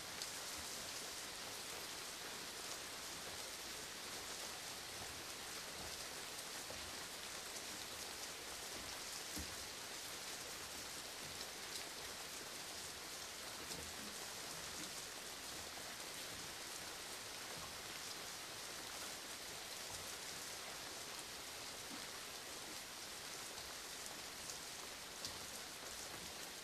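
Steady rain falling, an even hiss with a few louder drop hits here and there.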